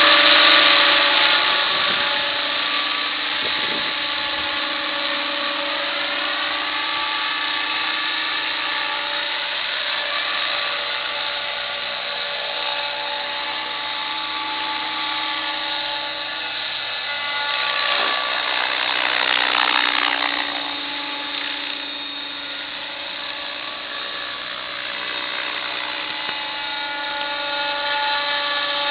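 Electric RC helicopter in flight: the motor and gear whine with the rotor, pitch shifting a little as the throttle changes. It grows louder and fades as the helicopter moves, loudest at the start and again about two-thirds of the way through.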